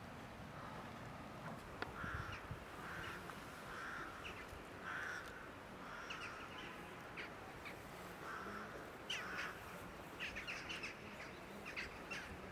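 Birds calling: a string of short calls about once a second, then quicker, higher chirps near the end, over faint steady background noise.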